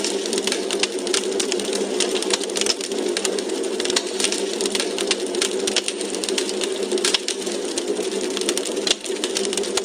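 Log fire in a fireplace crackling: rapid, irregular pops and snaps over a steady low rush of the flames.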